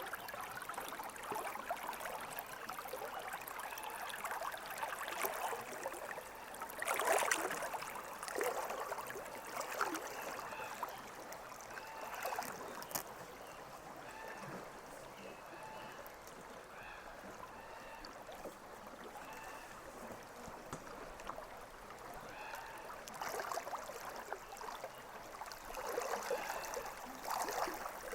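Pine River water flowing and gurgling steadily, with louder splashing swells about a quarter of the way in and again near the end.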